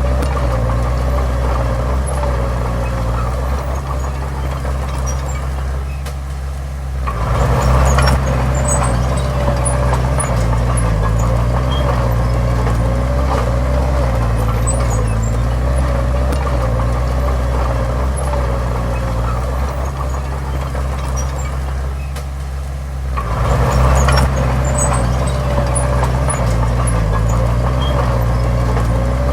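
Heavy diesel engine of earthmoving machinery running steadily under load. It eases off briefly and then revs back up, twice.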